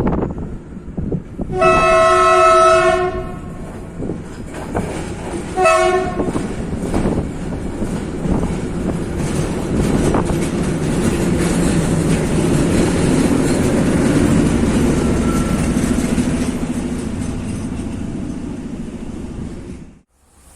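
Locomotive horn sounding a long blast and then, a few seconds later, a short one, followed by a train rolling past with wheel rumble and clatter that cuts off suddenly near the end.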